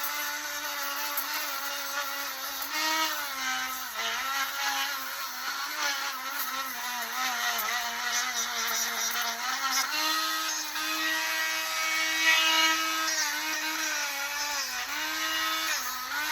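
Belt grinder with a very fine-grit abrasive belt running while a knife blade is finished on it. The motor's hum sags and recovers in pitch several times, as when the blade is pressed onto the belt and eased off, with a hiss of grinding over it.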